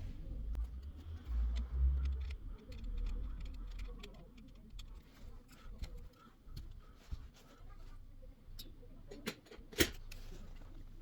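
Small clicks, taps and handling sounds of work on an electronic device's parts, with low rumbling handling noise in the first few seconds and one sharp click near the end.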